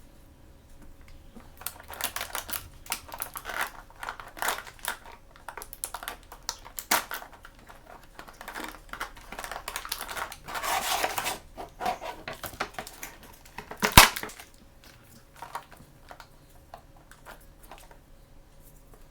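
Hands handling and opening small toy blind-bag and blind-box packaging: an irregular run of clicks, rustles and crinkles, busiest in the middle, with one sharp, loud click about three-quarters of the way through.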